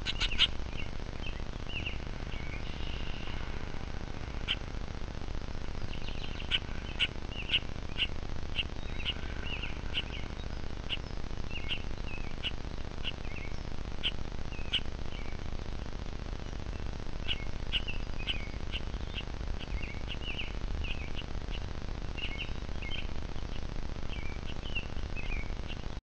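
Birds chirping: short, high chirps repeated in quick runs, sparse for the first few seconds and then nearly continuous, over a steady low background noise.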